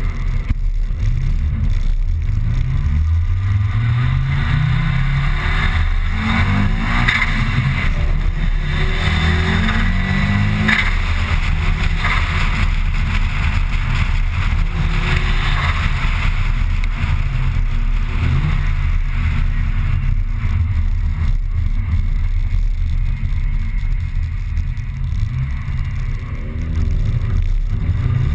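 Mitsubishi Lancer Evolution IX's turbocharged four-cylinder engine heard from inside the cabin, accelerating through the gears: the revs rise several times in the first ten seconds, settle into steadier running through the middle, and climb again near the end.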